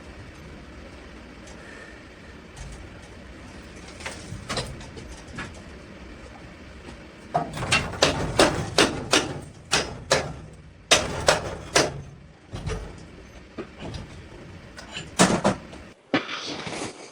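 Workshop handling noise: a run of sharp knocks and clatter, several a second, starting about halfway through over a steady low hum.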